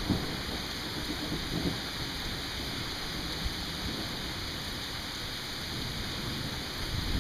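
Steady rain falling, with the last of a thunder rumble fading out at the very start.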